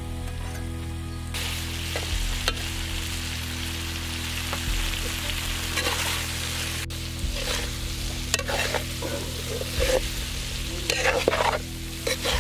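Chicken in masala sizzling in a large metal kadai, the hiss starting about a second in. A spatula stirring it scrapes and knocks against the pan several times, mostly in the second half.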